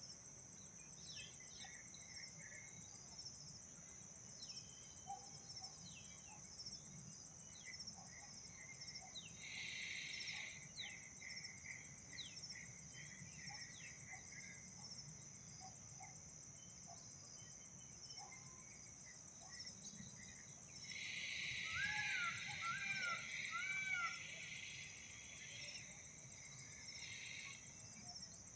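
Outdoor ambience: a steady, high pulsing insect chorus, with scattered short bird chirps and, about three-quarters of the way through, a short run of three or four arched bird call notes.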